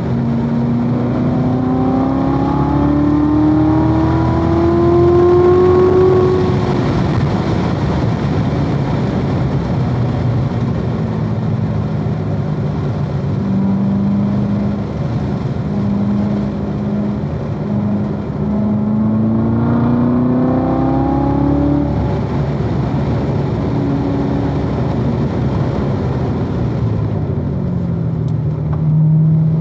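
2016 Corvette Z06's supercharged 6.2-litre V8 at speed on track: the engine note rises steadily under acceleration for the first several seconds, then drops off as it lifts, runs lower and steadier for a while, and climbs again about two-thirds through, with another dip and rise near the end.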